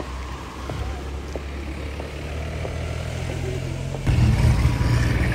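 A car engine running close by, its low hum slowly growing louder, then turning suddenly louder about four seconds in.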